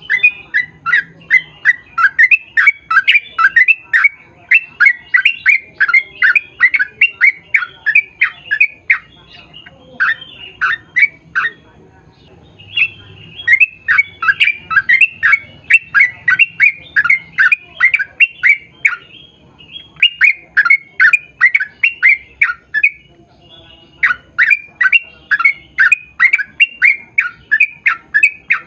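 Yellow-vented bulbul (trucukan) singing a long rapid-fire chattering song. It is a quick run of short notes, each dropping in pitch, about four or five a second, in long phrases broken by a few short pauses.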